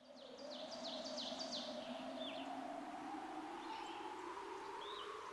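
Bird chirping, fading in: a quick run of high, downward-sweeping chirps in the first second and a half and a few more later, over a steady low hum.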